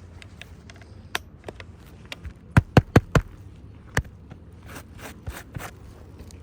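Hammer tapping a roofing nail into an asphalt shingle: a quick run of four sharp strikes near the middle and one more a second later, among lighter clicks and scrapes of handling on the roof.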